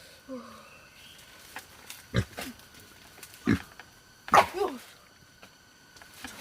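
Wild boar grunting in a series of short, sharp calls, a faint one at the start and louder ones from about two seconds in, a second or so apart. The loudest call comes a little past the middle and drops in pitch.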